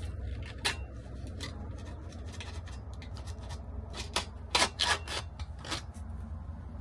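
Quick, irregular clicks and taps, as of hands working with small hard parts, loudest in a cluster about four and a half to five seconds in, over a steady low hum.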